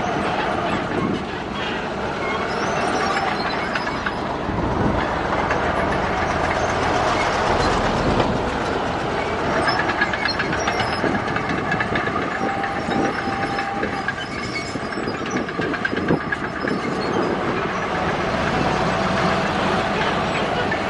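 Crawler bulldozer at work: its diesel engine runs steadily under load while the steel tracks clank, with a few brief squeals.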